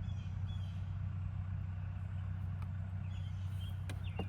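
Steady low hum of an idling vehicle engine, with a couple of faint clicks near the end.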